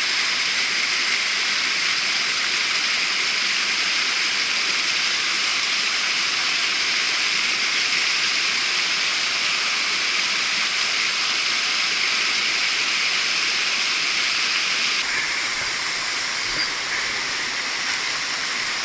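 Mountain stream water rushing over rocks in a steady hiss-like roar. The water sound changes character abruptly about 15 seconds in, and there is a brief knock a little later.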